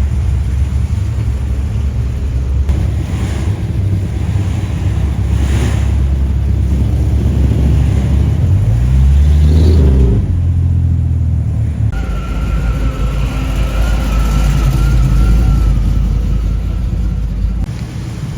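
Car engines running with a deep rumble, one revving up and back down about eight to ten seconds in. Later a steady high-pitched whine sits over the rumble.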